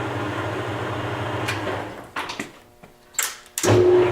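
Webb WL435 metal lathe running its cross feed, a steady gear-driven hum. About two seconds in the machine sound falls away for a second, with a few sharp clicks of levers. It then comes back louder with a steady whine.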